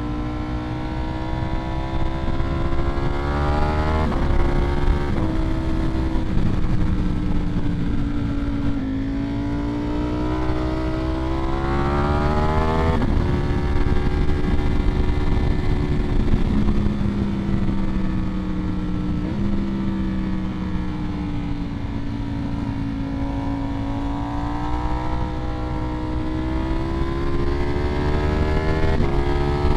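Ducati Streetfighter V4S's 1103 cc V4 engine through a Vandemon aftermarket exhaust, heard from on the bike while riding. The engine note climbs in pitch under acceleration and drops sharply several times as it shifts up, with steadier stretches of cruising in between.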